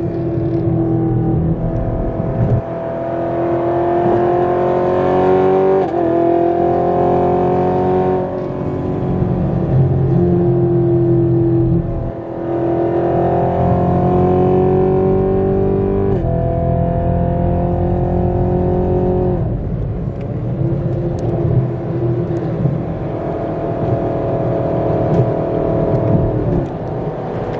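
Car engine pulling hard twice, each time through two gears: its pitch climbs steadily for a few seconds, drops at the upshift, then climbs again. Between the pulls it runs at a steadier, lower pitch.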